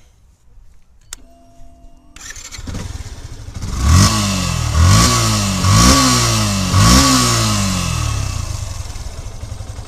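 Yamaha Fazer version 2 fuel-injected 149 cc Blue Core motorcycle engine: a click and a short hum, then the engine starts about two seconds in. It is revved four times in quick blips about a second apart, then settles to a steady idle without the low-speed knocking of the older engines.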